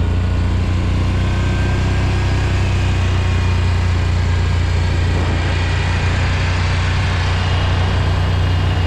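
Quad bike engine running steadily at idle, a loud, even low hum that neither revs nor changes.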